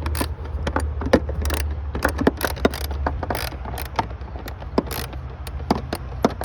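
Ratchet socket wrench clicking in quick, uneven runs as a bolt on the air intake housing is loosened, over a steady low hum.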